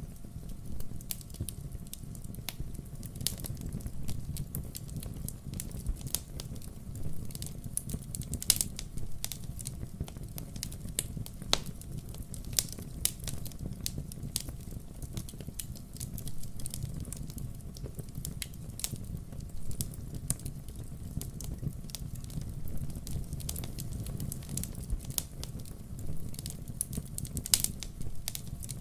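Firewood burning: irregular sharp crackles and pops, a few louder than the rest, over a steady low rumble of flames.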